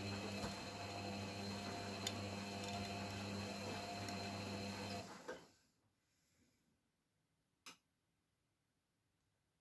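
Beko WML 51211 EL+ washing machine running with a steady hum and a few light ticks, which stops about five seconds in; a single sharp click follows near the end.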